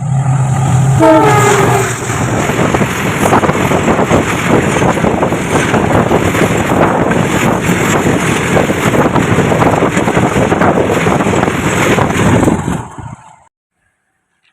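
A train passing close by at speed: its horn sounds briefly about a second in, then the loud rush and rattle of wheels on the rails carries on until it cuts off abruptly near the end.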